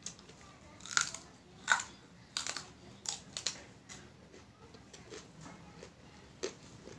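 Crisp crunching of a raw papaya stalk being bitten and chewed: a string of sharp snaps in the first few seconds, then fainter, sparser crunches.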